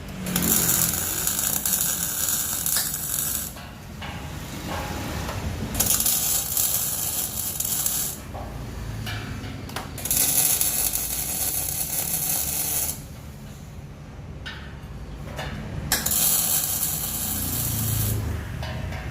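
Metalworking tool on impeller fabrication, going in four bursts of two to three seconds each with short pauses between.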